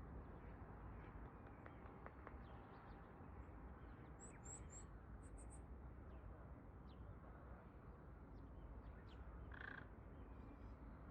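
Faint outdoor wild-bird calls over a low background hush: two quick runs of three thin, very high chirps about four to five seconds in, then one short, harsher call near the end.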